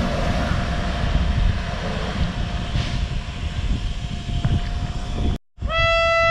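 Diesel trains running through a station with a steady low rumble and a faint steady whine. After a brief break near the end, a train horn sounds one steady note.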